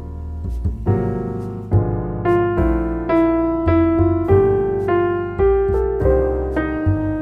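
Background piano music: single notes struck at a slow, even pace, each fading before the next, over a sustained low bass.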